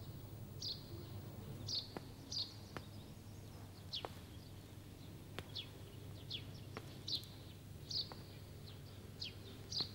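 Birds chirping faintly: short, high downward chirps repeated every half second to a second, over a low steady hum.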